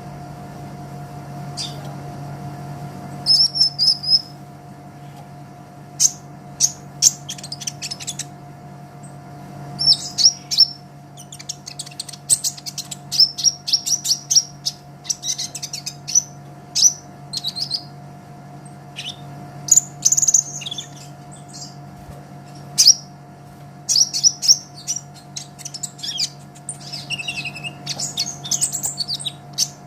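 Olive-backed sunbird (kolibri ninja) singing: rapid, high-pitched chirps and fast trilled runs, coming in bursts with short gaps between them.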